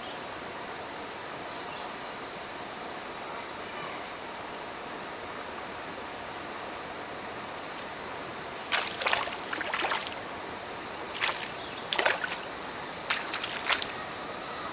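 Steady flow of a shallow river, then a run of sharp splashes in the water over the last few seconds, the loudest sounds here.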